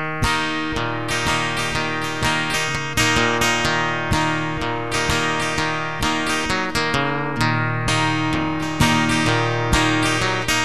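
Acoustic guitar strumming chords in a steady rhythm: the instrumental introduction to a country song.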